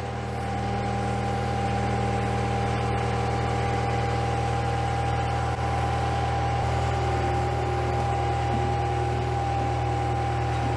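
Skid steer engine running at a steady speed, growing louder over the first couple of seconds and then holding even, with a steady whine above the engine note.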